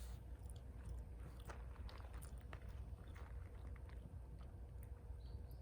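A person chewing food, a run of small irregular clicks and crunches.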